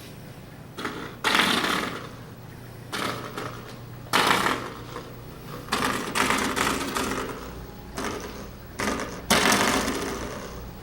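Baby gasping again and again at cool air blowing from an air-conditioning vent: a series of sharp, breathy intakes a second or two apart, over a steady low hum.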